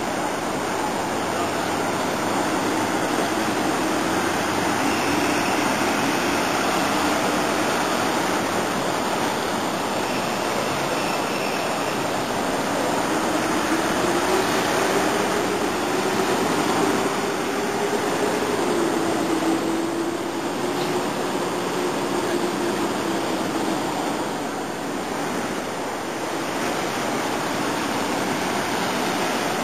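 Steady heavy rain, an even hiss with no let-up. A faint wavering tone drifts in and out through the middle.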